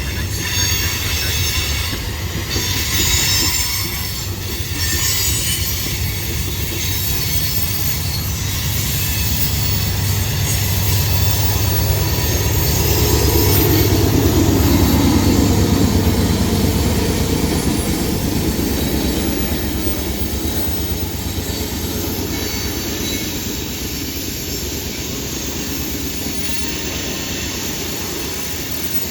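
CSX freight train rolling past on the grade, its steel wheels squealing in high, steady tones over a low rumble that swells to its loudest about halfway through and then fades.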